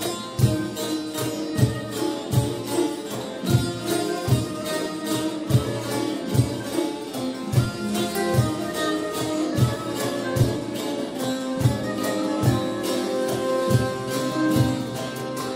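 Turkish folk ensemble playing an instrumental Black Sea (Karadeniz) tune: plucked strings over regular low drum strokes.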